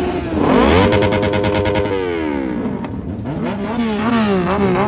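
Sport motorcycle engine being revved while standing: the revs climb quickly, hold high for about a second, fall away, then come back in a few quick throttle blips near the end.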